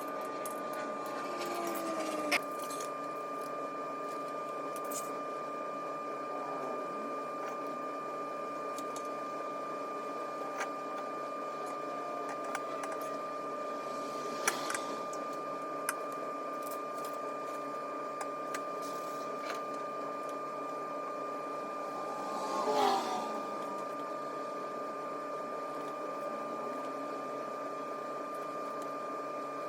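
A steady mechanical hum made of several held tones, with a few sharp metallic clicks and clinks from the engine stand's parts and tools being handled.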